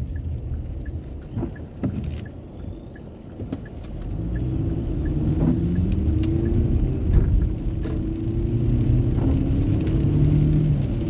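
Car engine and road noise inside the cabin while driving; from about four seconds in the engine note climbs steadily as the car accelerates, with a few light clicks and knocks.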